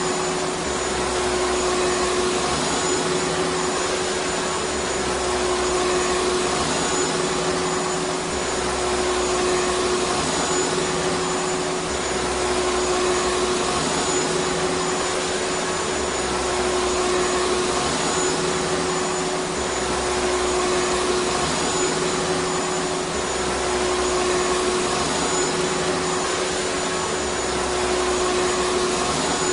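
Vacuum cleaner running continuously: a steady rushing noise with a constant hum, swelling slightly every few seconds.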